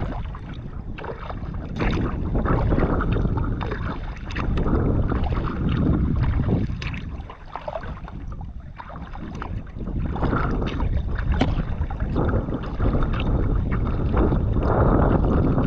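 A kayak is being paddled: the blades dip and splash in the water in repeated strokes, and the sound swells and falls every couple of seconds. Wind rumbles on the microphone underneath.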